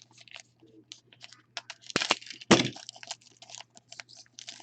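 A foil-wrapped trading card pack being torn open and crinkled by hand: a run of short, sharp crackles, with two louder ones about two seconds in.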